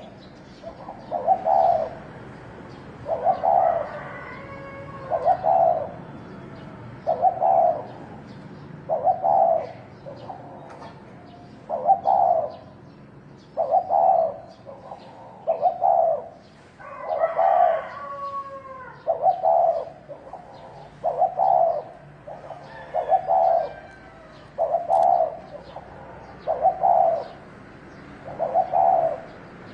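Spotted dove cooing over and over, a phrase about every two seconds, in the territorial call used to provoke rival males. Fainter chirps and sliding calls from other birds come in around a quarter and again near the middle.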